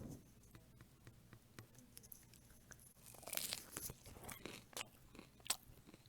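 Faint crunching of a fried chicken tender being bitten and chewed, in scattered crisp clicks starting about halfway through after a quiet first half.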